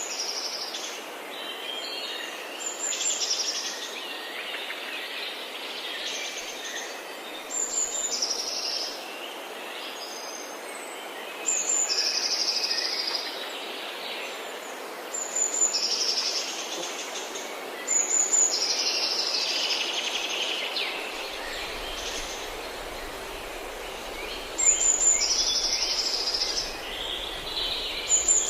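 Forest birds singing. One bird repeats a short song about every three to four seconds, a high opening note dropping into a rapid trill, while other birds chirp softly underneath over a steady background hiss.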